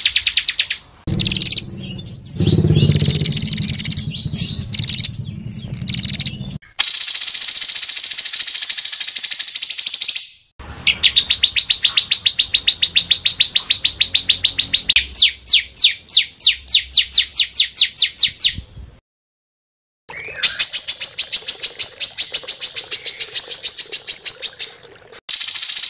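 Small songbirds singing fast, harsh trills of rapidly repeated high notes: the rough, close-packed 'tembakan' phrases used as master song for training competition birds. The song comes in separate edited passages, one with a lower chatter early on, with short breaks of silence about ten seconds in, near twenty seconds and just before the end.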